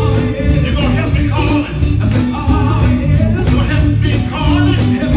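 Live gospel band playing at a steady beat with bass, held instrumental notes and tambourine, with voices singing.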